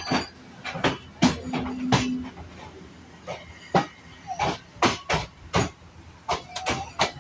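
Train wheels clacking over rail joints and points: sharp metallic knocks, often coming in quick pairs, at an uneven rhythm of roughly two a second.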